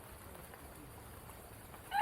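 Quiet outdoor ambience with a few faint bird calls, then a loud bird call begins right at the end.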